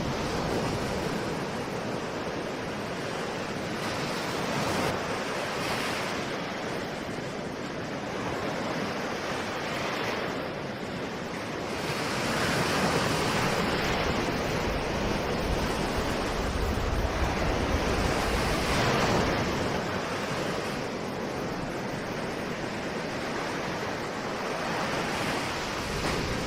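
Ocean surf: waves breaking and washing in, a continuous rushing noise that swells and ebbs every few seconds, loudest in a long surge about halfway through.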